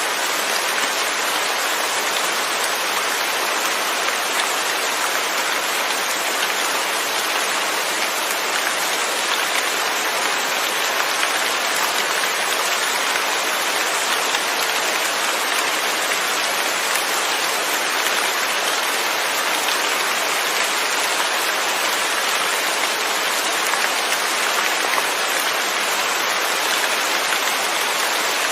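Steady rain falling on a surface, a dense even hiss of drops with no thunder.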